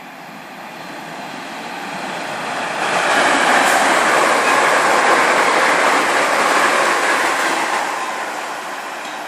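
A train passing at speed on the main line: the noise of its wheels on the rails builds over about three seconds, stays loud for about four seconds, then fades away.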